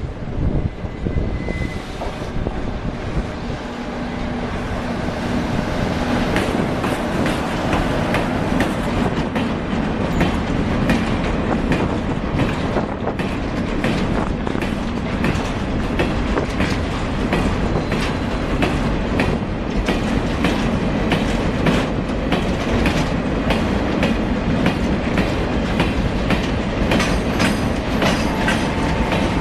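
Empty freight train of covered wagons rolling past, wheels clacking over the rail joints in a steady rhythm. The sound builds over the first several seconds, then holds steady.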